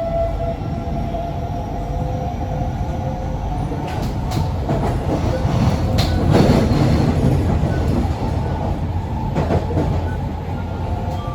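C151B metro train running, heard from inside the car: a steady rumble of wheels on track, with a few sharp clicks and a louder rumble about halfway through. Faint steady tones fade out early and come back near the end.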